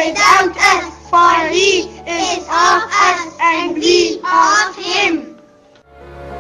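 A high-pitched child's voice in short phrases, which stops about five seconds in; soft music then swells in near the end.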